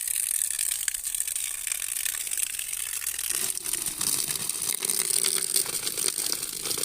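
Small clear stream of running water trickling, with many small splashing clicks over a steady hiss.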